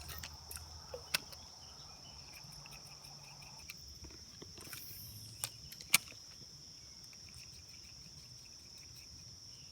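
Steady, high-pitched chorus of insects, with a few sharp clicks, the loudest about a second in and near six seconds in.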